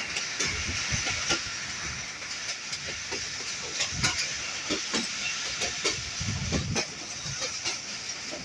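Passenger train running along the track, heard from an open coach window: a steady rushing hiss of wind and rolling noise with irregular clacks and knocks from the wheels on the rails.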